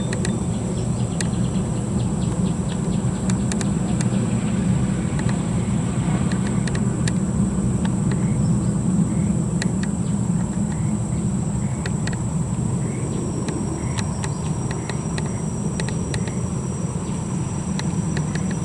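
Heavy truck's diesel engine running with a steady low rumble. Insects make a constant high-pitched whine over it, and there are scattered short chirps and ticks.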